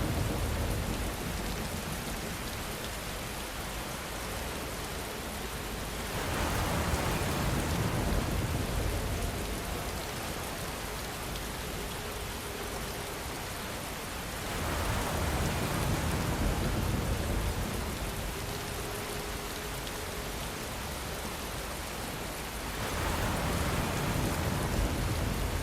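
Steady rainfall, a dense even hiss of falling rain, with a deeper rush that swells and fades about every eight seconds.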